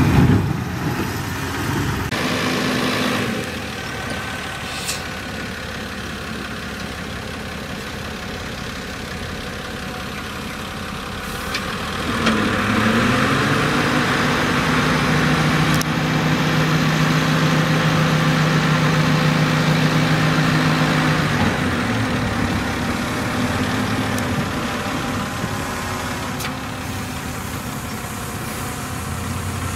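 Heavy diesel engine of earthmoving equipment running at low speed, with a low thump right at the start. About twelve seconds in it revs up under load and holds the higher, louder note for about nine seconds, then drops back toward idle.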